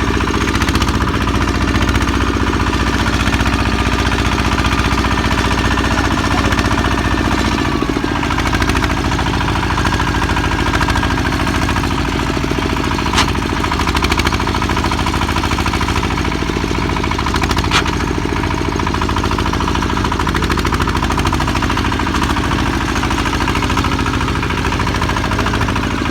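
Single-cylinder diesel engine of a công nông farm truck running with a steady knocking chug. About eight seconds in its note changes as the engine speed shifts, and there are two short sharp knocks in the middle.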